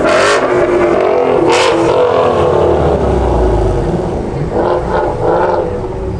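Car engines running and revving, with loud surges in the first two seconds, easing off somewhat in the last two.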